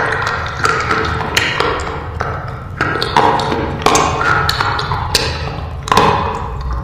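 Slate pencils being bitten and chewed close to the microphone: a run of sharp, brittle crunching snaps, about two a second.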